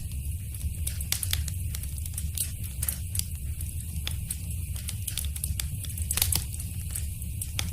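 Wood fire in a fireplace crackling and popping, with irregular sharp snaps over a steady low rumble of the flames.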